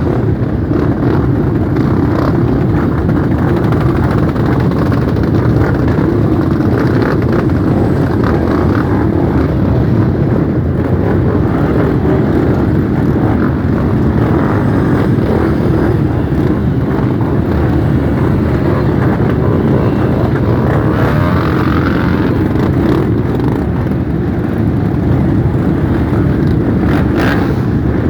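Many motorcycle engines running together as a group of motorcycles rides off, a loud, steady mass of engine noise.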